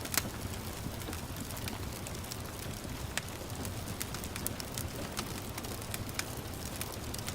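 Wood fire crackling, with scattered sharp pops, the loudest just after the start, over a steady gentle patter of rain.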